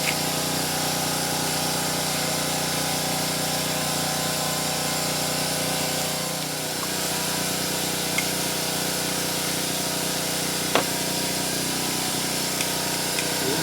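A steady mechanical drone with a pitched hum, dipping briefly about halfway, with a few light clicks of small metal parts or hand tools over it.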